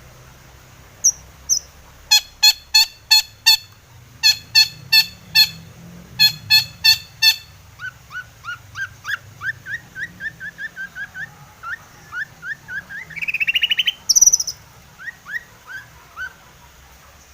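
Long-tailed shrike (cendet) singing. It gives three quick bursts of four or five loud repeated calls, then a long run of short rising notes that builds into a fast trill about thirteen seconds in, with a few more rising notes near the end.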